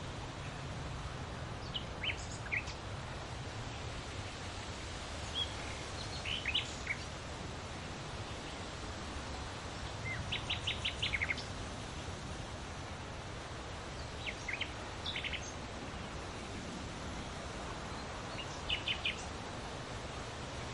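Wind rustling through large leaves in a steady hiss, with small birds chirping in short quick runs of high notes every few seconds.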